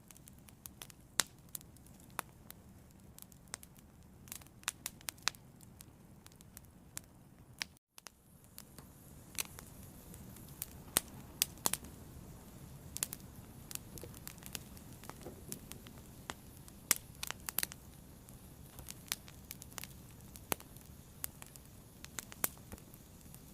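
Fire crackling, with sharp irregular pops over a low steady rumble of the flames. The sound cuts out completely for a moment about eight seconds in, then resumes a little louder.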